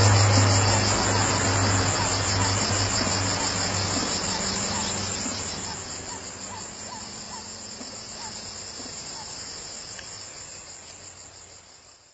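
Insects, crickets or the like, trilling in a steady, finely pulsing high chorus over a low steady hum and hiss. The whole fades out gradually to silence.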